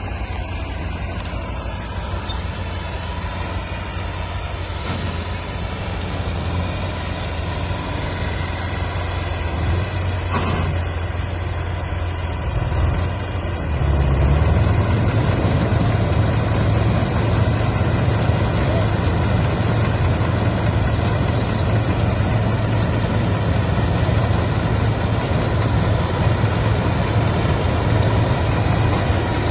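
Massey Ferguson 630S combine harvester's engine running steadily, growing clearly louder about halfway through and holding there.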